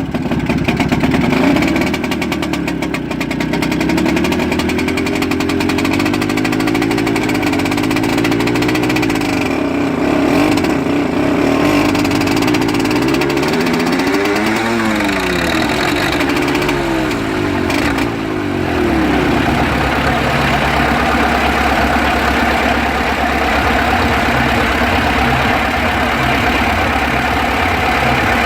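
Crawler tractor engine starting up: an engine runs with a wavering pitch that rises and falls, then about two-thirds of the way through the sound settles into a lower, steady idle with a regular knock.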